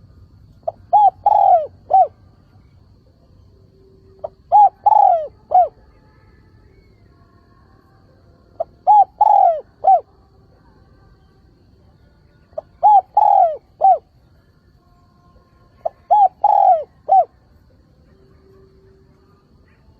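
Spotted dove cooing its territorial call: five phrases, each a few short coos that curve down in pitch, repeated every three to four seconds.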